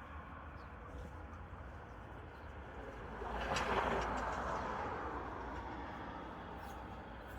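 A vehicle passing by: a whoosh of noise that swells a little over three seconds in and fades away over the next two seconds, over a steady faint background hiss.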